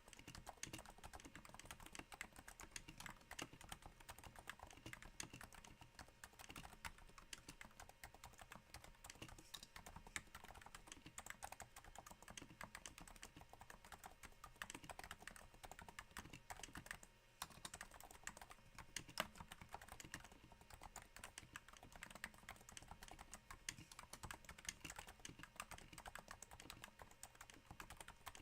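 Quiet, steady typing on a Cooler Master NovaTouch keyboard with Topre switches silenced by Hypersphere rings, on a thin desk mat. The keystrokes come in a continuous patter a little like rain, with a brief break about seventeen seconds in.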